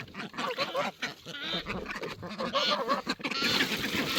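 Several domestic ducks quacking in quick, short, overlapping calls. Near the end, water starts running or splashing.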